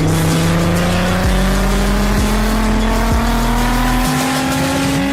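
Volkswagen Golf (Rabbit) MK1 GTI's inline-four engine pulling hard under acceleration, its pitch rising steadily as the revs climb, with music underneath.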